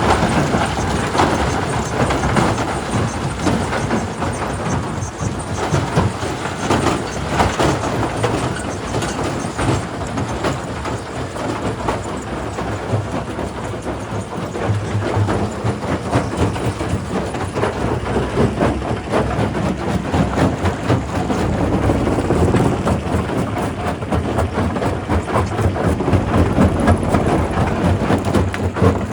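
Quarry primary rock crusher running, with rocks clattering and knocking continuously as they are broken up.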